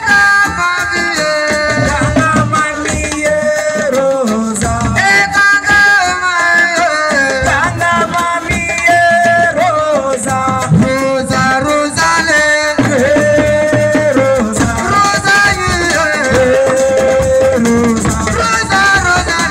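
Live assiko band music: a melodic lead voice with gliding, held notes over hand drums and a shaker rattle.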